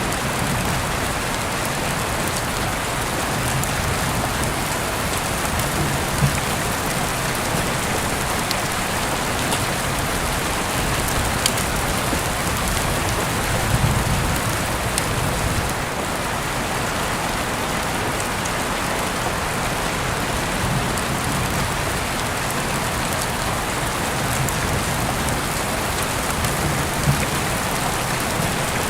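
Heavy rain falling steadily, an even hiss with a few sharper ticks of single drops hitting close by.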